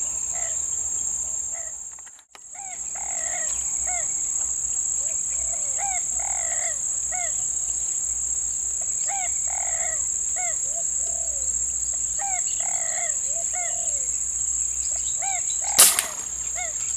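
Steady high-pitched insect drone with birds calling in short, repeated arched notes. There is a brief dropout about two seconds in and a single sharp crack near the end.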